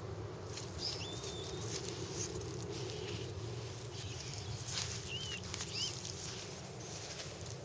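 Outdoor background with a few short, high chirps from a small bird and scattered faint clicks over a steady low hum.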